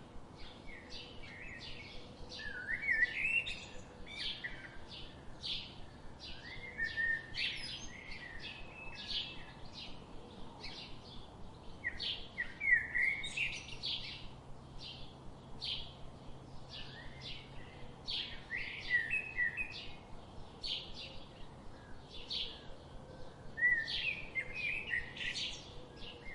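Small birds chirping: a steady run of short, high chirps about two a second, with a louder twittering phrase every few seconds.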